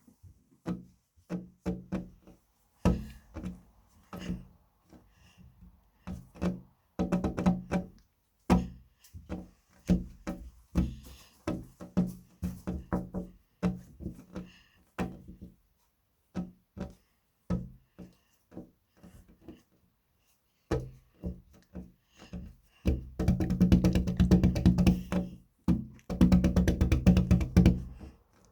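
Slime being pressed, squished and stretched by hand, giving irregular sticky pops and clicks in short runs with silent pauses. Near the end the pops come fast and crowded together.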